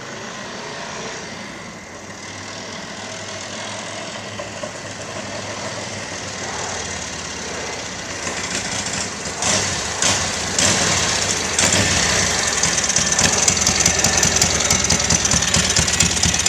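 1946 Harley-Davidson WR's factory-new flathead V-twin engine running just after a cold start, still warming up. From about eight seconds in it gets louder, with a few sharp pops, and then runs faster and more steadily.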